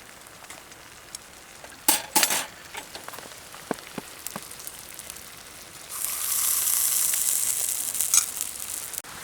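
Metal utensil knocking and clinking against a camp cooking pot twice, then a few lighter ticks, followed by about three seconds of sizzling hiss near the end.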